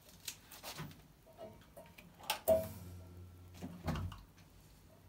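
A few scattered knocks and clicks from handling the opened washing machine's drum and housing. The loudest comes about two and a half seconds in, with a short ring after it.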